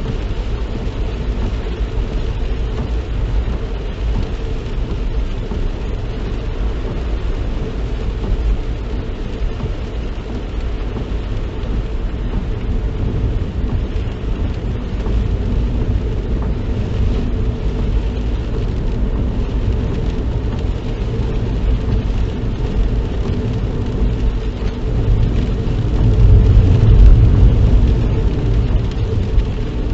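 Inside a moving car: steady engine and tyre noise on a wet road, growing louder for a few seconds near the end.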